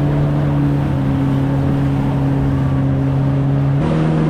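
Four-cylinder four-stroke engine of a 2018 Yamaha FX HO jet ski running steadily at low speed, its pitch stepping up slightly near the end.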